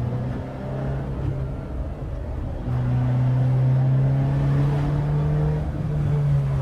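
Peugeot 206's straight-piped four-cylinder engine with an open intake, pulling under load: the note is lighter at first, then comes back on throttle and gets louder about two and a half seconds in, holding steady and climbing slightly in pitch near the end.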